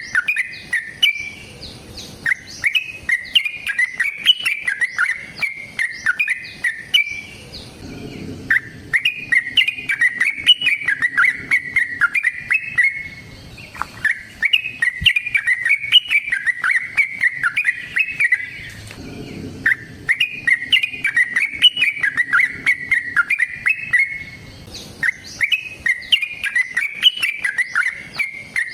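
Yellow-vented bulbul (trucukan) singing long, rapid runs of bubbly chattering notes. The runs come in phrases of about five seconds with short breaks between them.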